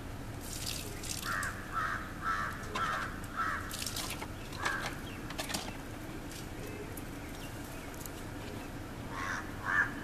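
A bird calling off-screen in a quick run of about five notes, roughly two a second, then once more and twice near the end. Between the calls come short crunching strokes as a southern coucal pecks at dry food scraps.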